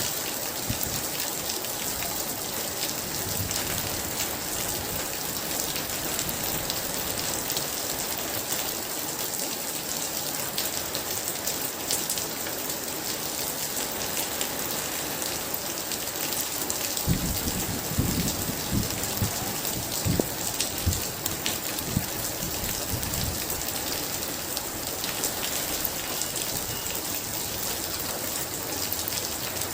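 Heavy rain falling steadily and densely, with a low crackling rumble of thunder from about 17 seconds in that lasts several seconds.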